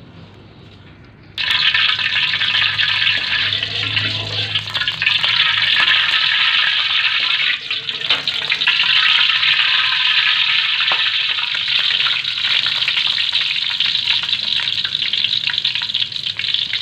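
Hot oil sizzling loudly in a wok as ingredients begin to fry, stirred with a metal spatula. The sizzle starts suddenly about a second and a half in and then keeps going steadily.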